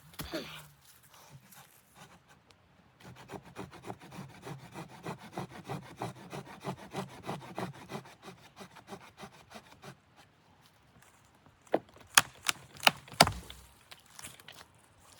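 A rapid, even run of rubbing or scraping strokes for several seconds, then a handful of sharp knocks near the end.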